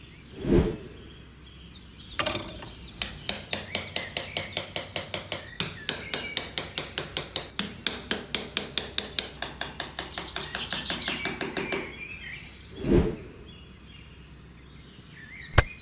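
Small hammer tapping on wood in a fast, even run of about four strikes a second, as in nailing parts of a miniature wooden build, with birds chirping in the background. A short whoosh sounds about half a second in and again near the end.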